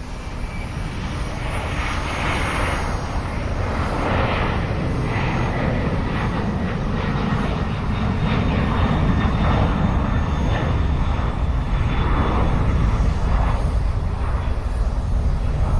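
Jet engines of a cargo airliner running, a steady rushing rumble that grows gradually louder.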